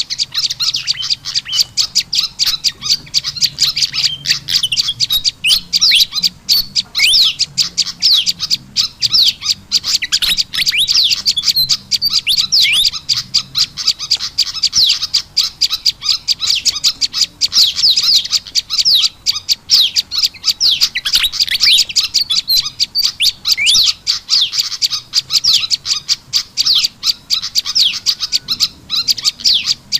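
Lure recording of prenjak lumut calls combined with kipasan ribut calls: a continuous, loud stream of rapid high chirps and twittering trills with quick pitch sweeps.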